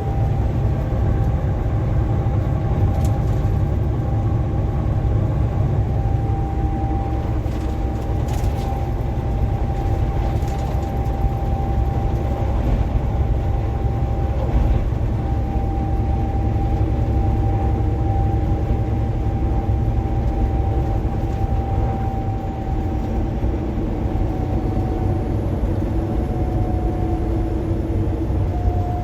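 Vehicle driving at highway speed, heard from inside the cab: a steady low road-and-engine rumble with a constant high whine over it.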